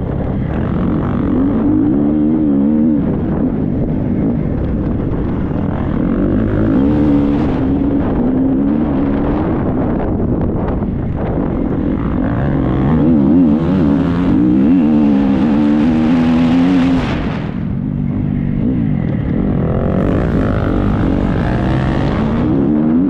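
Triumph 250 motocross bike's four-stroke single-cylinder engine revving up and down as it is ridden hard off-road, its pitch rising and falling over and over with the throttle.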